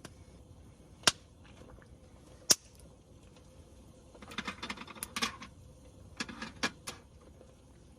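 Two sharp single clicks, then two short bursts of clattering clicks, as of small hard objects being handled.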